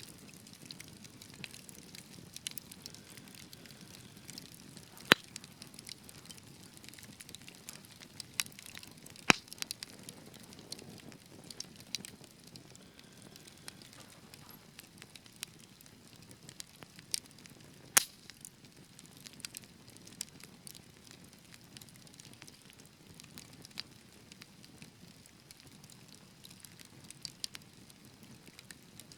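Wood fire in a fireplace crackling: a low steady hiss with scattered sharp pops and snaps, a few of them loud.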